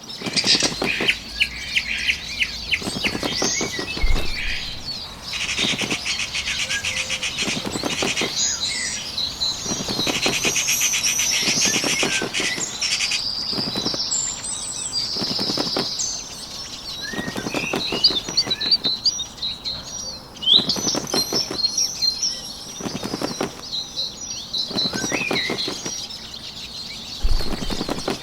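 Bird wing-flapping sound effect, in repeated bursts of rapid wingbeats every couple of seconds, over continuous birdsong chirping.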